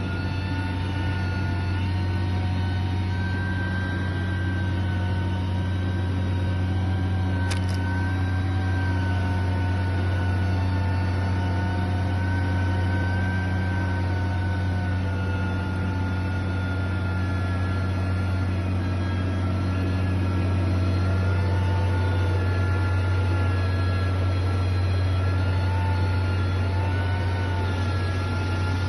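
Heavy construction machine's engine running steadily: a low drone with a faint wavering whine above it. There is one short click about seven and a half seconds in.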